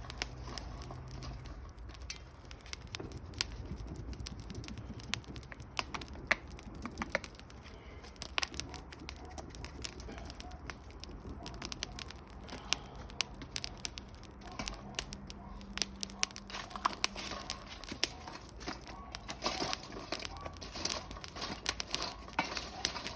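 Irregular crinkling and rustling handling noises with many scattered small clicks, over a low steady hum: something being unwrapped and handled while food is prepared.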